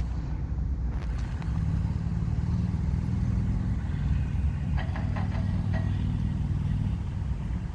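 Steady low outdoor rumble, with a few faint short ticks about five seconds in.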